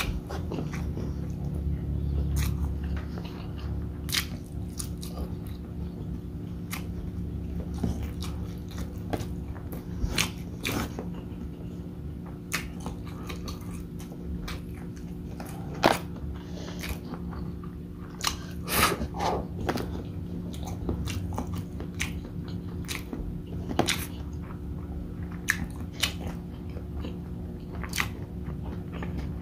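Close-miked chewing and wet mouth sounds of a person eating beef bopis and rice with his hands, with sharp smacking clicks scattered throughout, over a steady low hum.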